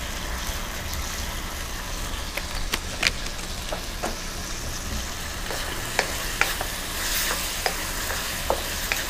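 Stir-fried vegetables and sauce sizzling in a wok over a portable gas burner after a splash of water, with scattered sharp pops and crackles. A wooden spoon stirs the pan near the end.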